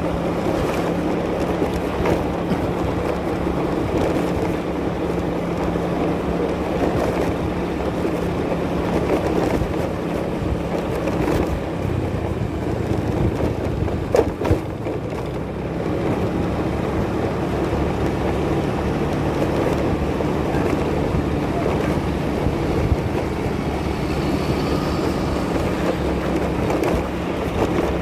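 Motorcycle engine running steadily while riding, with wind noise buffeting the microphone. The engine note shifts slightly about twelve seconds in.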